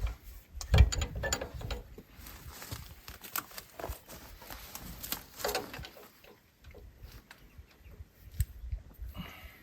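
Irregular metallic clinks and knocks of hand tools working on the fuel-pump fittings of an excavator, with one loud knock about a second in.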